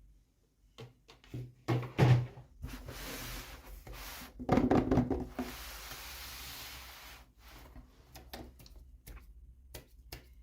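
Hands handling toy packaging during an unboxing: a few knocks and taps, then a long rustling rub lasting about four seconds, then small scattered clicks.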